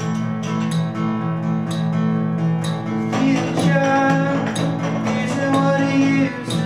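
Acoustic guitar strummed steadily, played in a bathroom; a lead voice comes in singing about three seconds in.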